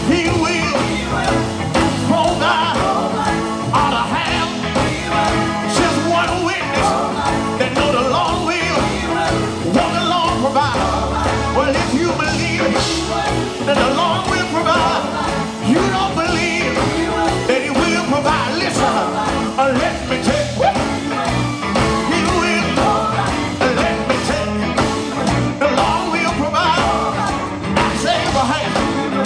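Live gospel quartet music: a band with electric guitar, bass and keyboard playing on, with singing over it.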